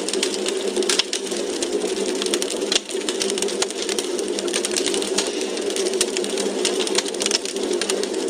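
Wood fire in a fireplace crackling: a dense, irregular run of small pops and snaps over a steady low hiss.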